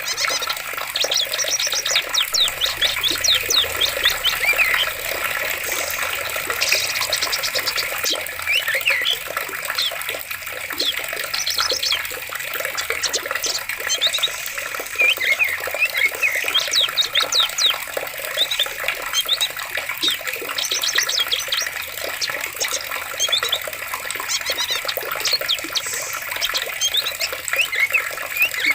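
Running water, a steady rushing, with small birds chirping and trilling throughout over it.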